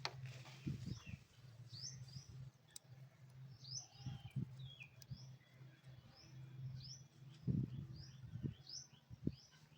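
Small birds chirping over and over in short, quick high notes, over a steady low hum, with a few soft knocks from work on the engine, the loudest about seven and a half seconds in.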